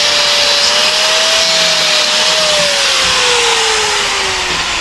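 Cutoff wheel tool cutting metal: a loud, steady grinding hiss over a high motor whine that holds, then sinks slowly lower through the second half as the wheel slows under the cut.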